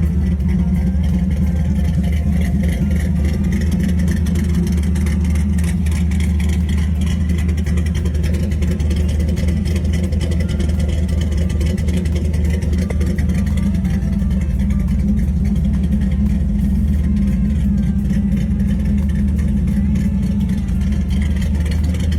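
Car engine, a 5.3 LS V8 with a custom camshaft, running steadily with a constant low rumble.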